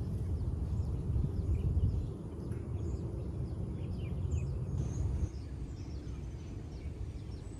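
Small birds chirping in quick short notes over a low steady rumble outdoors; the chirping thins out about five seconds in.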